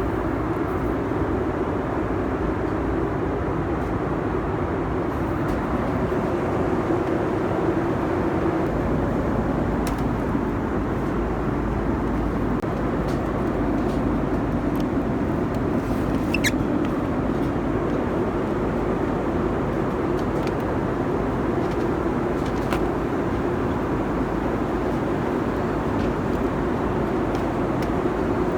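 Steady cabin noise of a Boeing 747-400 in flight: an even rush of airflow and engine drone, with a few faint clicks.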